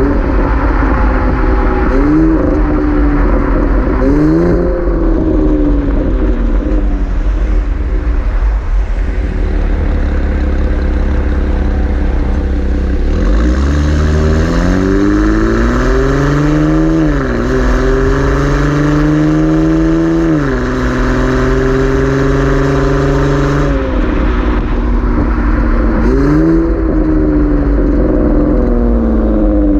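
3.6-litre V6 of a 2016 Chevrolet Camaro through a Borla ATAK axle-back exhaust, accelerating: a short rise and fall of revs early on, then a long climb about halfway through that steps down in pitch three times as the transmission upshifts, and another brief rise and fall near the end. A steady low rumble runs underneath.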